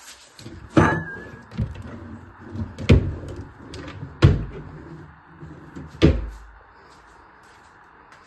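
Four loud knocks or bangs, spaced one to two seconds apart, with smaller knocks between them and a short squeak right after the first.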